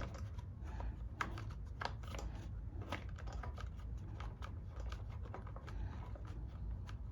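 Irregular light clicks and taps of small metal parts and fasteners being handled and fitted by hand during carburetor reassembly on a lawn mower engine.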